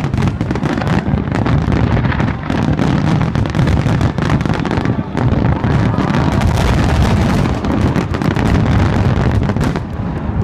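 Aerial fireworks going off in a dense, continuous barrage of overlapping bangs and crackles, easing slightly near the end.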